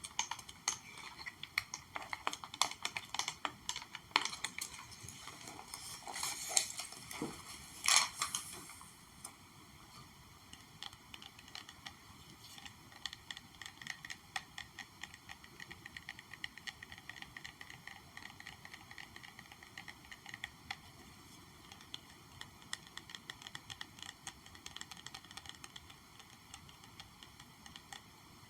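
Gentle ASMR tapping: many light, quick taps. For the first nine seconds or so they are louder, with a couple of sharper strikes, and after that they become a softer, faster patter.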